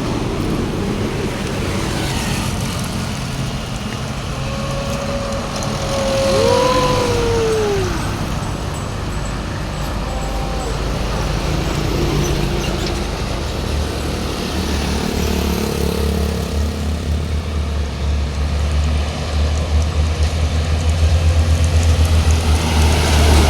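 Heavy road traffic passing on a highway bend, with a big diesel vehicle's low engine rumble growing loud and pulsing over the last ten seconds as it comes close. Several seconds in, a drawn-out tone bends downward in pitch.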